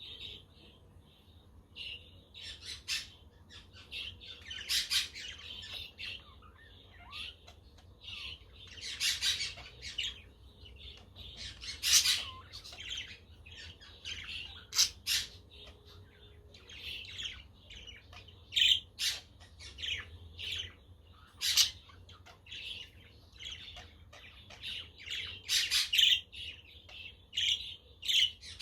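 Budgerigars chattering and chirping nonstop, a busy stream of short warbles broken by frequent sharp, louder calls.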